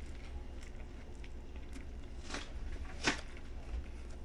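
A person chewing a mouthful of sandwich close to the microphone, with two short crisp crunches about two and three seconds in, over a faint low hum.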